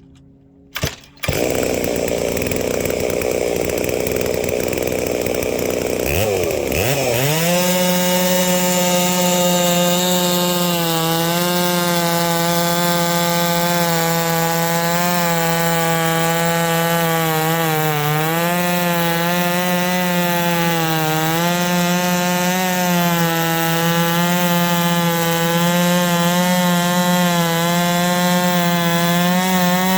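Big-bore Holzfforma G660 two-stroke chainsaw on a chainsaw mill, run up to full throttle about a second in and cutting through a log. From about seven seconds its pitch climbs and holds a steady high whine, sagging slightly now and then under load in the cut.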